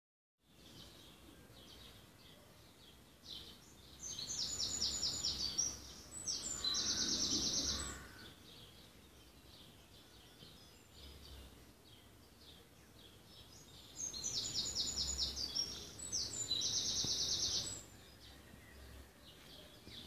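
A songbird singing two long phrases about ten seconds apart, each a run of quick high notes ending in a fast, dense trill. Fainter chirps from other birds carry on between the phrases.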